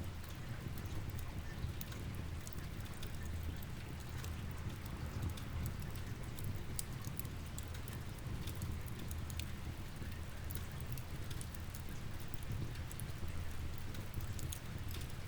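Crackling fireplace over steady rain: many small sharp pops and crackles scattered over an even rain hiss and a low rumble.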